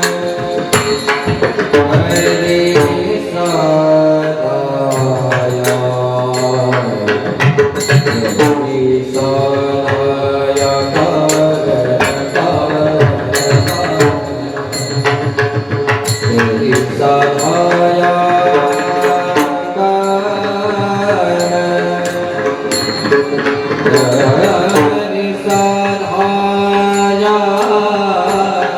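Devotional singing with pakhawaj drum accompaniment: a voice holding and bending long notes over fast, dense pakhawaj strokes.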